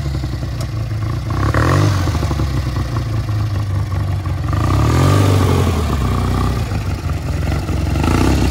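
Lawn tractor engine running under load as the crawler mower climbs over rocks, revving up and easing off twice, with some rattling clatter.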